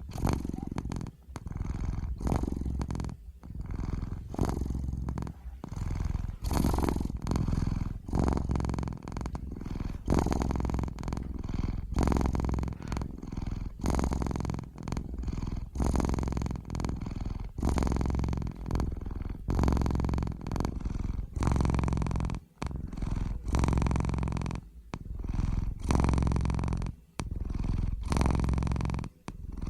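Domestic cat purring close up, a steady low rumble broken by short pauses between breaths every second or two.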